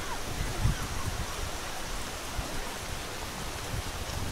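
Heavy rain falling steadily on water and ground, picked up by a GoPro's built-in microphone as an even hiss with uneven low rumble.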